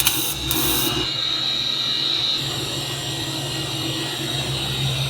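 Arc welding on a steel exhaust hanger: a steady buzzing hiss, with a few short crackles in the first second.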